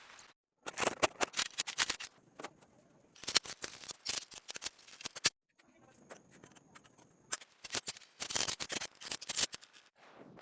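Three bouts of rapid, sharp clicking and scraping from hand-tool work on a rusty Honda GX160 engine.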